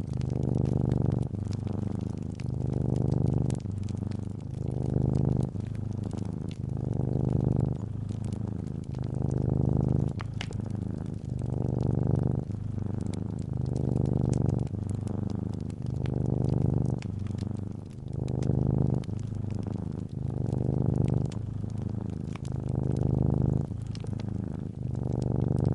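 Domestic calico cat purring close up, swelling and easing with each breath about every two seconds, with faint crackling of a fireplace fire over it.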